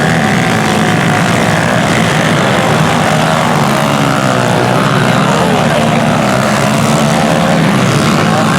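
Several small pit bike engines racing, their buzzing pitch rising and falling as they rev.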